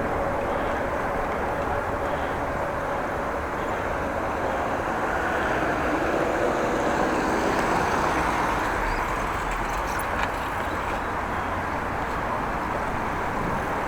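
Wind rushing over a bike-mounted camera's microphone while cycling, mixed with tyre and road noise: a steady, even rush.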